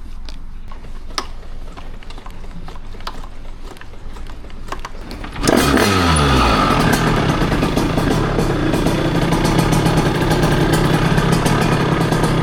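A few scattered clicks and knocks, then about five seconds in the Derbi Senda 88cc's two-stroke single-cylinder engine starts. It catches with a brief rev that falls away, then settles into a steady idle.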